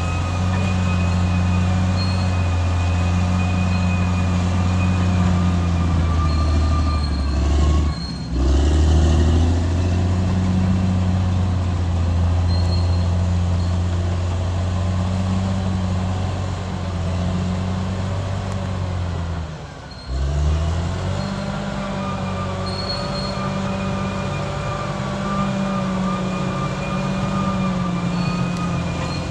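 Caterpillar D6R XL bulldozer's diesel engine running steadily, with a faint high whine over it. The sound breaks off briefly about eight seconds in and again about twenty seconds in, then carries on.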